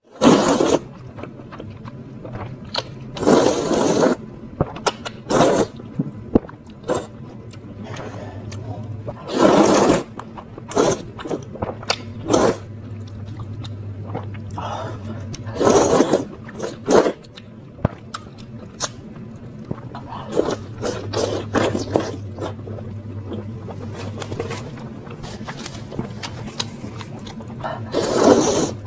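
Close-miked eating of spicy noodles: bursts of slurping about a second long every few seconds, with chewing and small clicks between them, over a low steady hum.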